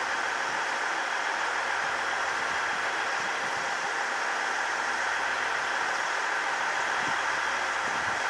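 Steady mechanical hum and hiss of train machinery at a station platform, with no sudden sounds.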